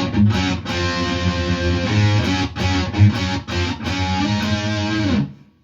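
Electric guitar playing a rock riff of power chords on the D and G strings against a ringing open A string, in a rhythmic pattern of repeated strokes. It stops suddenly near the end.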